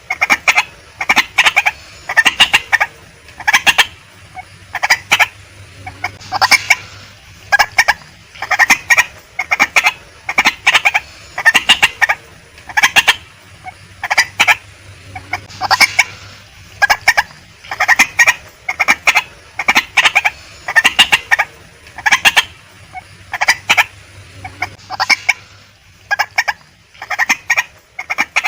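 Female white-breasted waterhen calling: runs of short, harsh, clucking notes, grouped in quick clusters that come about once a second, over and over.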